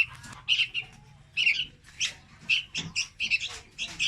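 Young red-whiskered bulbuls calling: a quick, uneven run of short, harsh chirps, several a second and sometimes overlapping.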